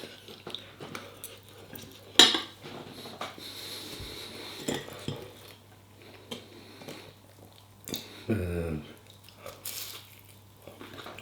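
Cutlery clinking and scraping against a dish while eating, in scattered light clicks with one sharper clink about two seconds in.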